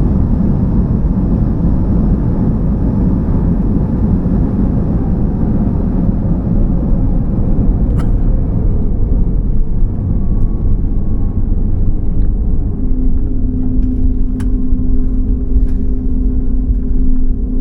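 Cabin noise aboard a COMAC C919 rolling out on the runway after landing: a heavy rumble from the wheels and engines that eases as the jet slows. A steady hum comes in about two-thirds of the way through, and a few light clicks are heard.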